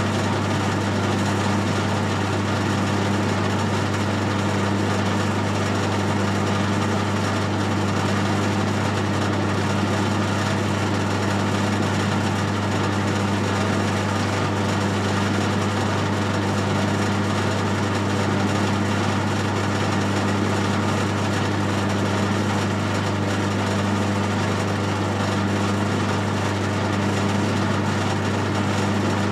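Metal lathe running at a steady speed, its motor humming evenly under a constant hiss, while a parting tool is fed into the turning workpiece.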